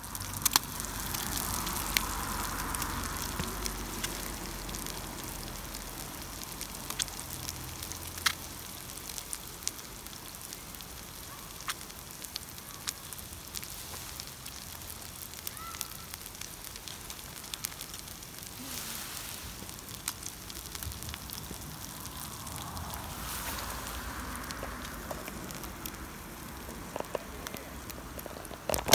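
Fried eggs and sausages sizzling in a frying pan: a steady hiss with scattered sharp pops.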